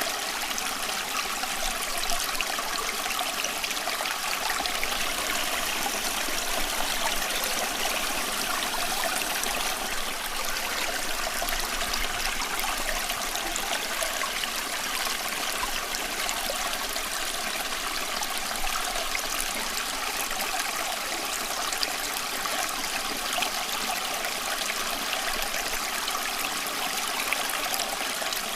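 Running water, a steady, even rush that does not change.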